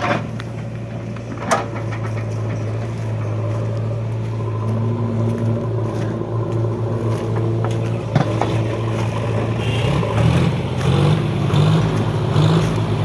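Heavy diesel machine engine running steadily, with a few sharp knocks. The sound grows rougher and more uneven in the last few seconds.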